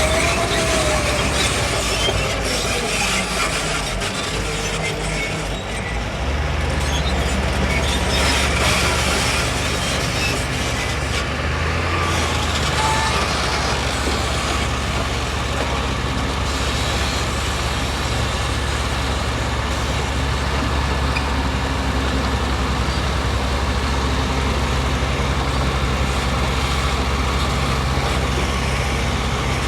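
Diesel engine of heavy construction machinery running steadily with a low hum, with a high squeal that falls in pitch during the first few seconds.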